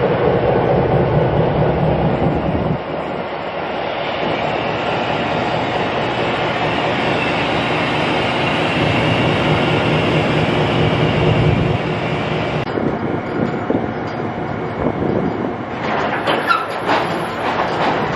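Diesel switcher locomotive running as it passes close by, its engine loudest at the start and again in the middle. Flatcars loaded with rail then roll past, with clicks and knocks from the wheels near the end.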